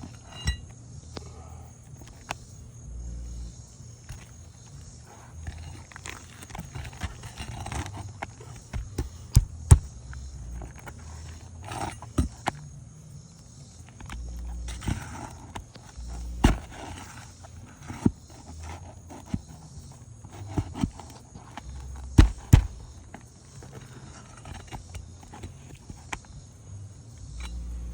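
A steel flat bar prying and scraping under asphalt roof shingles to pull the nails: irregular sharp knocks and clicks with short scrapes, the loudest knocks about 9 to 10 seconds in, near the middle, and twice in quick succession around 22 seconds in, over intermittent low rumbles.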